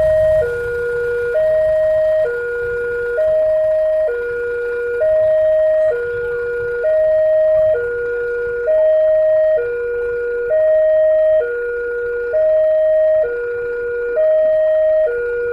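Railway level-crossing warning alarm sounding its alternating two-tone signal: a high tone and a low tone, each held just under a second, repeating evenly. It is the warning that a train is approaching and the crossing is closing.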